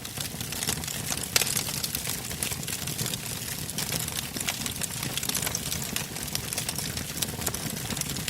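Wood fire burning, its logs crackling and popping in irregular sharp snaps over a low steady rush of flame, with one louder pop about a second and a half in.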